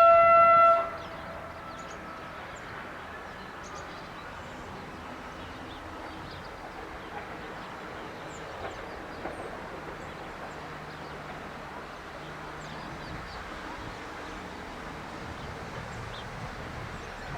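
A short single-pitched horn blast from an EA-class electric locomotive, lasting under a second, followed by the steady noise of the train running along the track.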